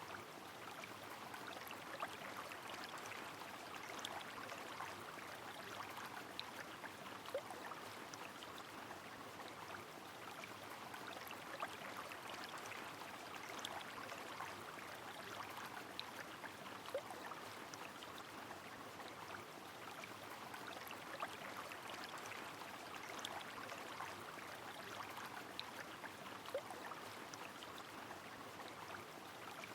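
Steady rain falling over a flowing river, a continuous watery rush with many small drop ticks and an occasional single drip plop.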